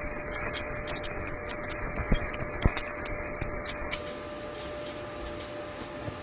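Welding arc hissing and crackling steadily, with a few sharp pops, then cutting off suddenly about four seconds in as the arc is broken.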